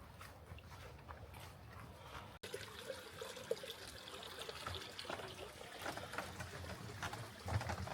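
Water trickling, beginning after an abrupt cut about two and a half seconds in.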